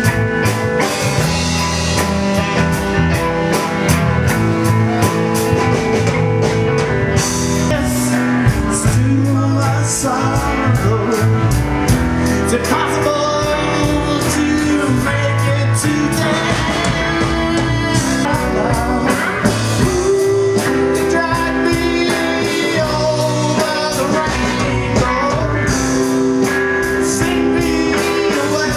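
Live rockabilly blues band playing: guitar over bass and drum kit, a steady beat throughout.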